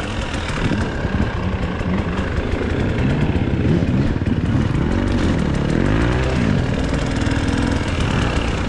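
GasGas EC300 two-stroke enduro dirt bike engine running with the throttle worked on and off, its pitch rising and falling repeatedly, with one clear rev up and back down about five to six seconds in.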